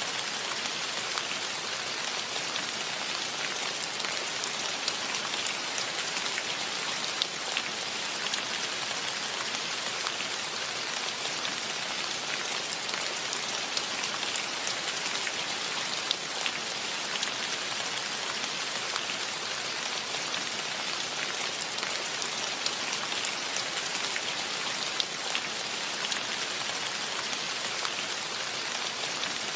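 Steady rain falling, an even hiss with many individual drops pattering and ticking close by.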